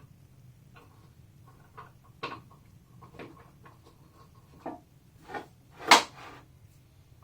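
Scattered knocks and clicks of handling at a table saw, with one sharp knock about six seconds in, over a faint low hum.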